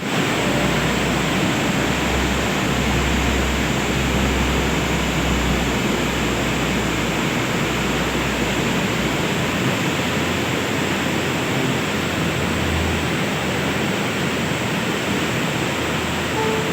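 Steady rush of fast-flowing floodwater, an even noise with no breaks. A deep rumble underneath drops away about ten seconds in.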